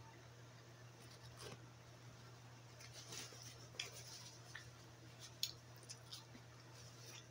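Faint, scattered clicks and crinkles of eating: sushi being chewed and a paper napkin being handled, the sharpest clicks about four and five and a half seconds in. A low steady hum sits underneath.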